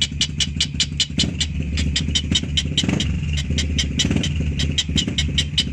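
A small engine running steadily: a low hum with rapid, even ticking of about seven ticks a second.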